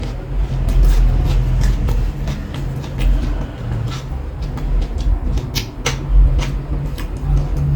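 Close-miked eating sounds: chewing with many short, sharp wet clicks and crunches from the mouth, over a steady low hum.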